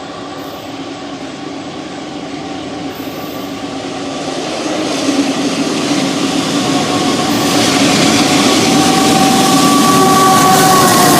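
A train approaching on the track, getting steadily louder: rumbling wheel and rail noise builds into a rising hiss, with a few steady whining tones running through it.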